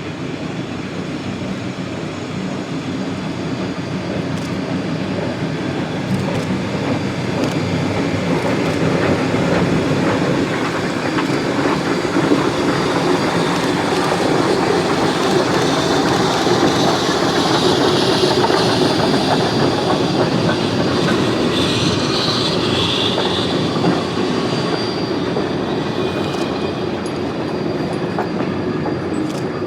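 A geared steam logging train running past. Its rumble and rail noise build to a peak about midway and then ease off, with a high wheel squeal around the middle.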